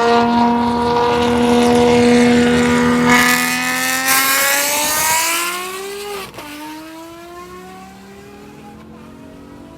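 Ferrari 599's 6.0-litre V12 with headers and a race exhaust, holding steady revs and then accelerating hard, the pitch climbing. About six seconds in a quick upshift drops the revs and the engine pulls on in the next gear, growing fainter.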